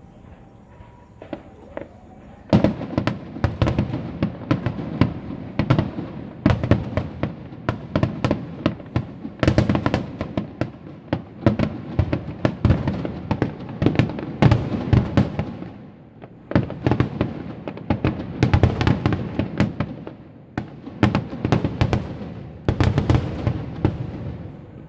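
Aerial fireworks bursting in dense rapid barrages, a quick volley of sharp bangs and crackles that starts about two and a half seconds in, with two brief lulls and a tailing off near the end.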